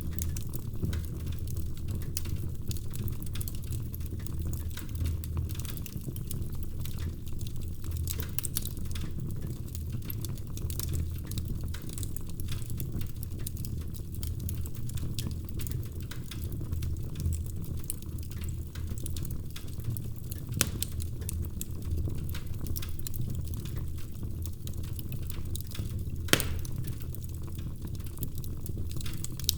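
Wood fire crackling in a fireplace: a steady low rumble of flames under frequent small snaps, with two louder pops in the last third.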